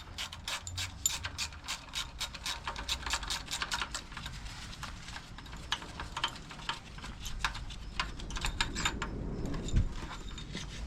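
Hand ratchet wrench clicking as it is worked back and forth on a fastener: a quick train of sharp clicks, about five a second for the first few seconds, becoming sparser and irregular about halfway through.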